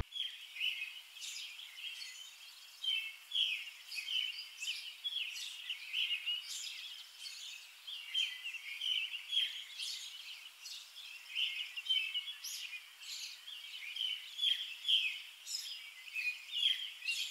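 Birds chirping outdoors: many short, high chirps, a few a second, over a faint hiss.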